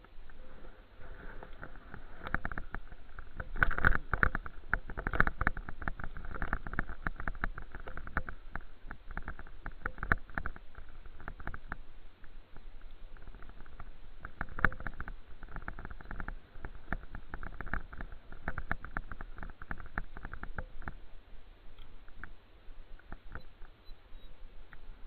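Bicycle riding noise: dense, irregular rattling and clicking over a low rumble, thinning out near the end.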